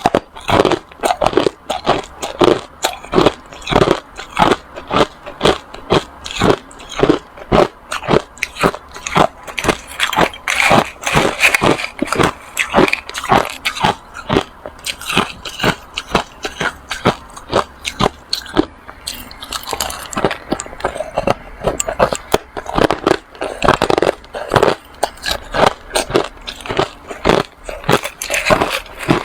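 Hard ice being bitten and chewed close to the microphone: a rapid, continuous series of sharp crunches, a few every second.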